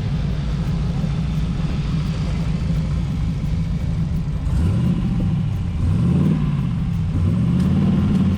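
Car engines rumbling as cars cruise past. In the second half one car accelerates, its engine pitch rising three times in a row as it pulls through the gears.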